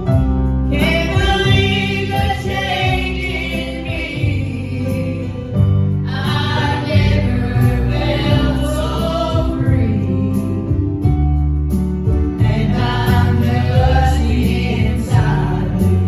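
Gospel music: a vocal group singing together over guitar and low instrumental backing, in three sung phrases.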